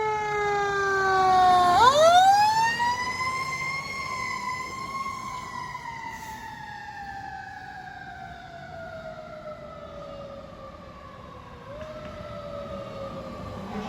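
Fire truck's Federal Q mechanical siren winding down, then wound back up sharply about two seconds in, where it is loudest, and left to coast down in a long, slowly falling wail.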